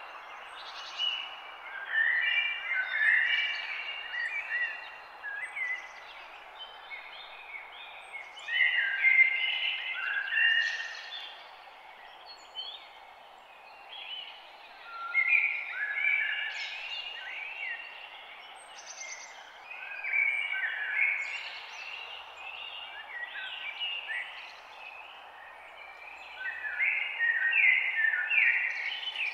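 Several songbirds singing in a dawn chorus, with short chirping and warbling phrases coming in clusters every few seconds over a steady faint background hiss.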